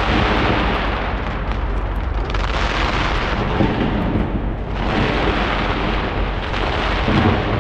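Aerial fireworks going off in a dense, continuous barrage of booms and crackles. It comes in surges, with brief dips about two and five seconds in.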